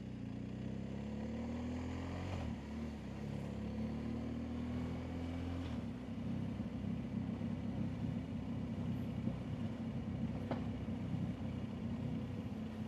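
BMW R1250GSA's boxer-twin motorcycle engine pulling up through the gears: the pitch rises, drops at a shift about two and a half seconds in, and rises again until about six seconds in. It then settles to a steady, rougher note.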